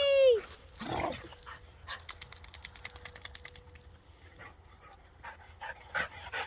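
Dog whining: a loud, high whine that falls in pitch, then a short low bark about a second in, followed by a run of faint clicks.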